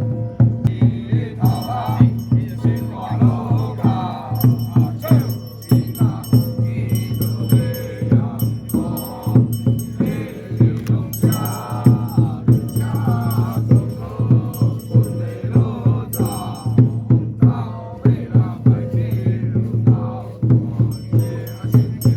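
Folk-Taoist ritual masters chanting together over a steady drum beat, with a metallic jingling that comes and goes.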